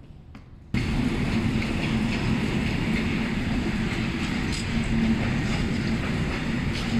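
Freight train of hopper and container wagons rolling past, a steady rumble of wheels on rail with a few faint clicks. It cuts in abruptly under a second in, after quiet room tone.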